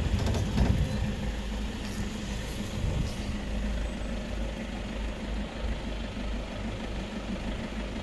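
A vehicle engine idling with a steady low hum, typical of a safari jeep stopped with its engine running.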